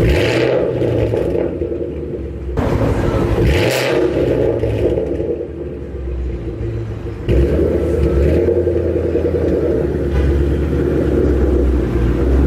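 Ford Mustang GT's V8 with a loud aftermarket exhaust, rumbling as the car drives, with throttle surges that make it louder about two and a half seconds in and again about seven seconds in.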